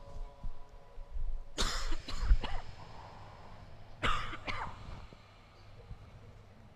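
A person coughing and clearing their throat in two short bouts, the first a quick run of coughs about one and a half seconds in, the second about four seconds in.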